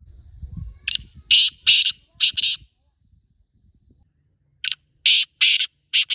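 Black francolin calling: two phrases of loud, harsh, grating notes, about five in the first and four in the second. A steady high buzzing tone runs under the first phrase and stops about four seconds in.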